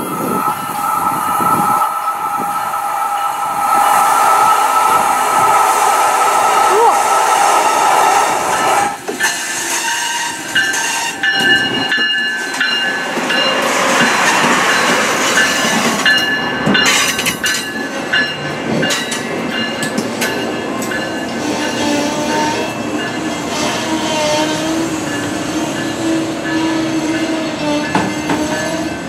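Amtrak Siemens ACS-64 electric locomotive sounding its horn in one long blast of about nine seconds as it approaches. Then the locomotive and its coaches pass close by, with rolling wheel noise, clicking over the rail joints, and thin high squeals from the wheels on the curve.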